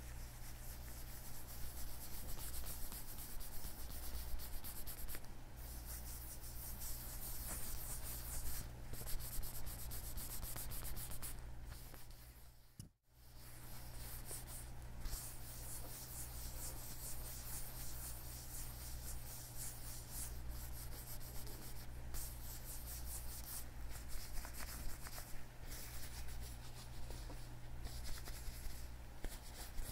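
Leather gloves rubbed together on the hands close to the microphone, in continuous scratchy strokes, over a steady low hum. It drops out to silence briefly about 13 seconds in.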